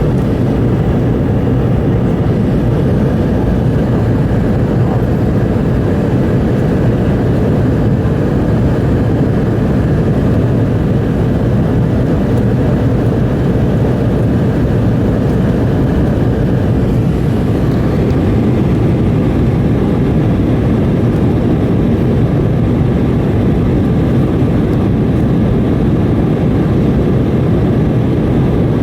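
Boeing 717-200 cabin noise: a loud, steady rush of the rear-mounted Rolls-Royce BR715 turbofans and airflow around the fuselage, as the airliner climbs after takeoff.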